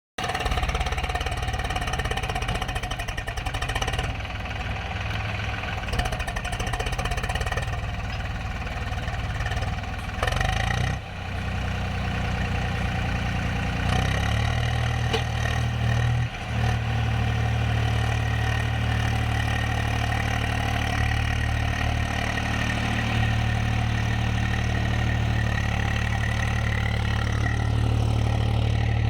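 Swaraj tractor's diesel engine running steadily while pulling a trolley fully loaded with sand. The engine note steps up about halfway through and holds there, with a thin steady whine alongside, and it dips briefly twice.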